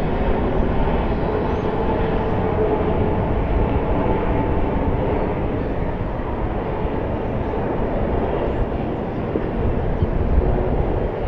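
Boeing 737 MAX 8's CFM LEAP-1B jet engines running steadily as the airliner lands, a dense even rush with a faint steady hum in it.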